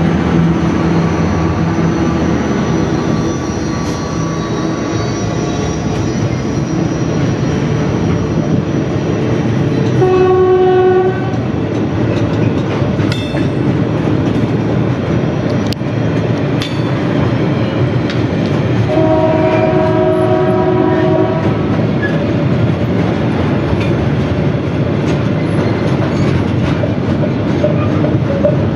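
Container and tank wagons of a Pacific National freight train rolling past, with steady wheel-on-rail noise and occasional clanks. A locomotive horn sounds twice, a short blast about ten seconds in and a longer one about twenty seconds in.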